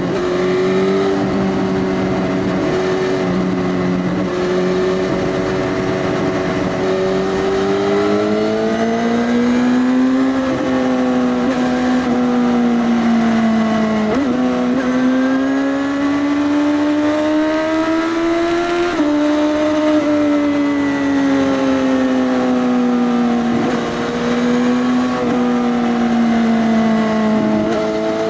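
Suzuki GSX-S1000's inline-four running through an Arrow Race-Tech full exhaust with the dB killer removed, while riding. The engine note rises and falls slowly, with two sudden shifts in pitch about 14 and 19 seconds in.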